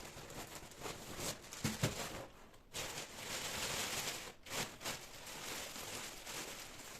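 Light handling noises: soft knocks and clicks with rustling, and a steadier hiss for about a second and a half near the middle that stops abruptly.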